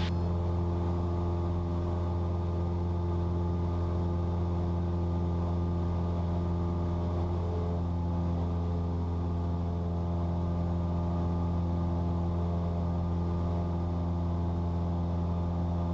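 Cessna 172's four-cylinder piston engine and propeller droning steadily at climb power, a constant low hum with no change in pitch.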